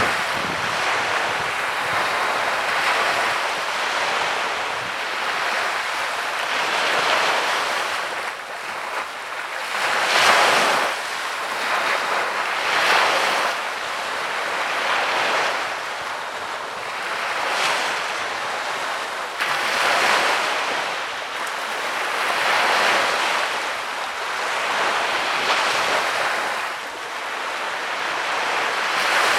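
Sea waves breaking and washing up a beach, swelling and fading every two to three seconds.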